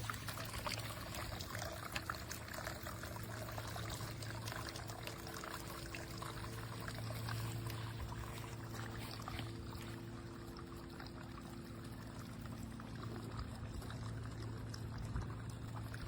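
Water pouring and trickling steadily down the tiers of a four-tier solar cascade garden fountain, with a faint steady hum underneath.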